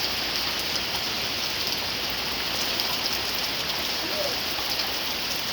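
Thunderstorm rain falling steadily: an even hiss with faint scattered drop ticks.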